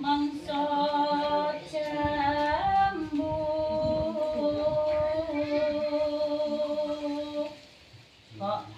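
Female voices singing a slow melody in long held notes during a song rehearsal; the singing stops about seven and a half seconds in, with a short sung fragment just after.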